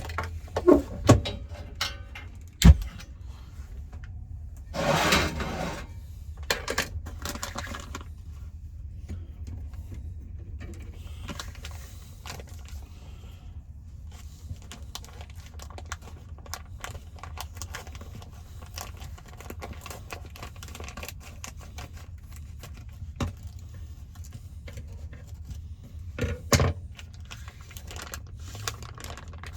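Metal clicks, knocks and rattles of a camp stove and its propane fittings being handled, with a sharp knock a few seconds in, a second-long rush of noise soon after and a louder clatter near the end, over a steady low hum.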